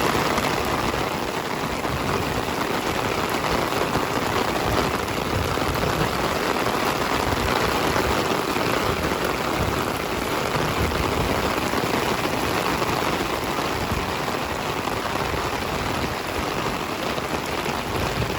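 Heavy tropical-storm rain falling steadily and landing on an umbrella held overhead.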